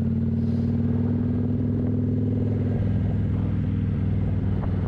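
Kawasaki 900 motorcycle engine running steadily under way through its factory exhaust with the baffles taken out; the engine note shifts slightly about three seconds in.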